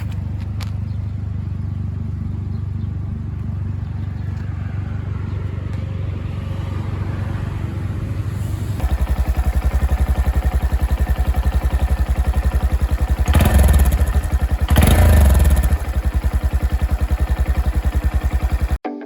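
Honda Monkey 125's single-cylinder four-stroke engine running steadily, then much louder with a fast, even pulse from about halfway. Two brief revs rise above it, and the sound cuts off abruptly near the end.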